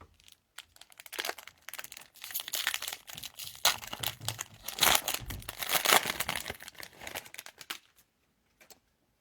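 Foil wrapper of a Topps Chrome trading-card pack being torn open and crinkled: a dense crackle lasting about seven seconds, loudest in the middle.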